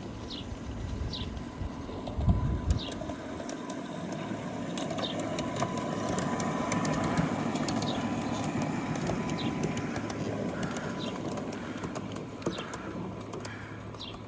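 Outdoor ambience: a bird gives short, high, falling chirps every second or two, while a distant vehicle's noise swells and fades as it passes. Two low thumps come a little over two seconds in.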